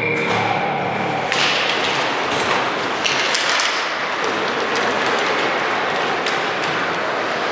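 Basketball game noise in a gym: thuds and taps of the ball and players' feet over a steady hubbub. Two brief, louder bursts of noise come about a second in and about three seconds in.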